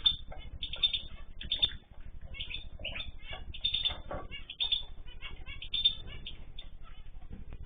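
A group of ornamental cage birds chirping busily, with many short, high chirps overlapping over a steady low rumble.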